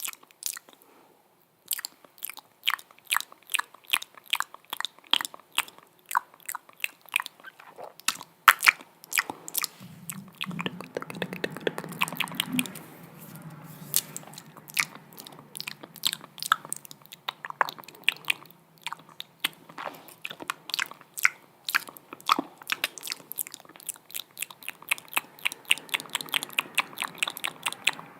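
Close-miked wet mouth sounds: an irregular run of sharp clicks and pops from the lips and tongue, crackling more densely about ten seconds in and again near the end.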